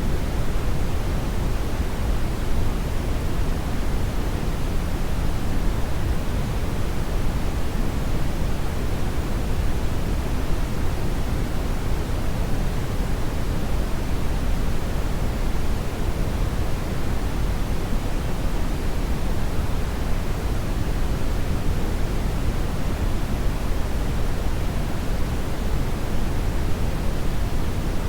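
Hair dryer blowing steadily: an even, unbroken rush of air, heaviest in the low end, with no change in speed or pitch.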